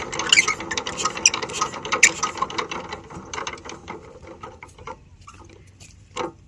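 Mechanical ratcheting clatter: rapid, irregular clicks that thin out and fade over about five seconds, then one sharper knock near the end.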